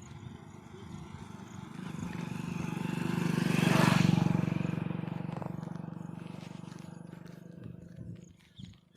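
A passing motor vehicle's engine: a low pulsing hum that grows louder to a peak about four seconds in, then fades away.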